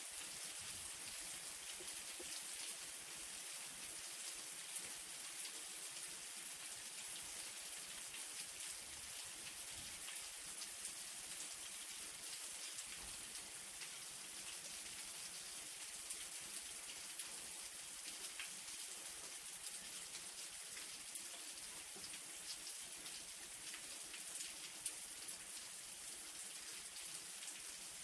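Light rain falling steadily, a soft even hiss made of many small drop taps.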